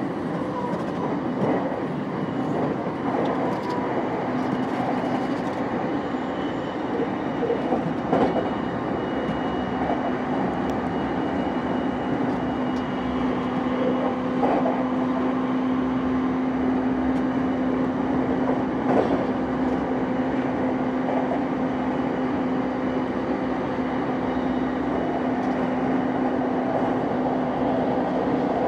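Running sound of a JR East E233 series 5000 electric commuter train at speed: a steady rumble of wheels on rail with a few sharp clicks from rail joints, and a steady low tone that sets in about five seconds in.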